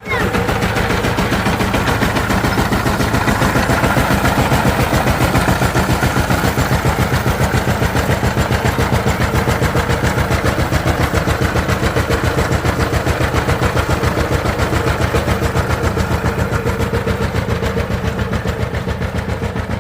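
Diesel engine running steadily, with a fast, even firing beat.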